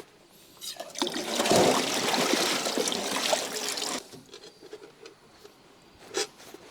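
Liquid being poured in a steady stream for about three seconds, stopping abruptly.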